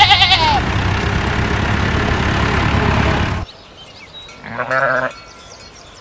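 Sheep bleating: a wavering, quavering bleat at the start and a second, shorter bleat about four and a half seconds in. Between them a steady noisy rumble that cuts off suddenly about three and a half seconds in.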